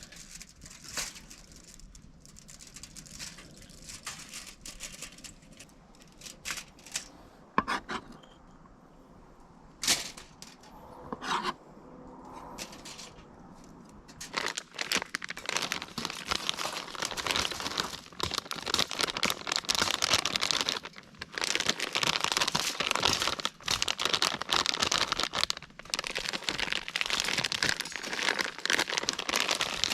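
Packaging crinkling and tearing while food is handled: a few scattered knocks and rustles, then dense, continuous crinkling from about halfway through.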